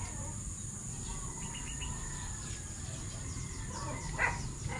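Outdoor rural background of birds chirping: faint chirps about a second and a half in, and a louder short call near the end, over a steady high-pitched hum.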